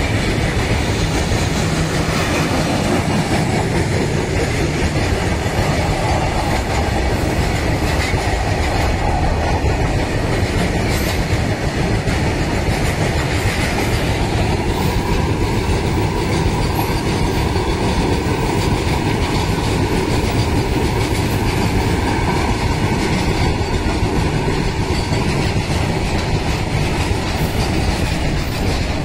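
Loaded freight train of open steel coal wagons passing close at speed: a loud, steady rush and rumble of steel wheels on the rails.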